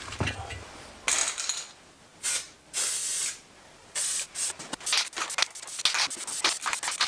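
Spray hissing in several short bursts, one held steady for about half a second, followed by a quick run of short rasping strokes.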